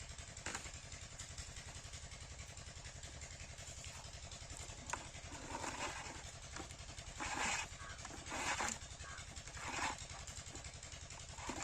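Single-cylinder 7HP diesel pump engine running steadily with a rapid, even chug. About six to ten seconds in, a few short, louder noisy bursts sound over it.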